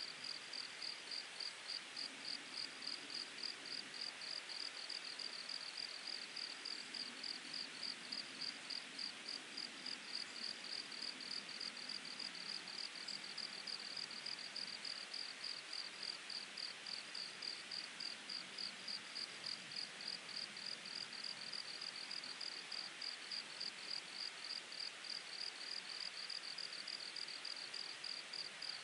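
An insect chirps in the grass in a steady, even rhythm of about three high pulses a second. Beneath it a mountain stream babbles steadily.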